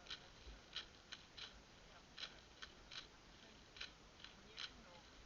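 Faint, irregular light clicks or ticks, about two a second, against near silence.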